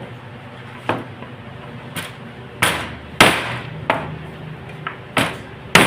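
A series of sharp knocks, about seven irregularly spaced strikes, the loudest a little past the middle, over a steady low hum.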